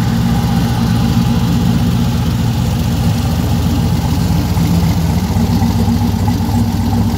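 Twin-turbocharged LSX V8 in a 1972 Camaro idling steadily.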